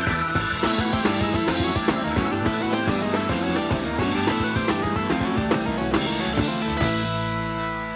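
Instrumental rock music: guitar and drum kit playing with no singing. Near the end the drums drop back under a held chord.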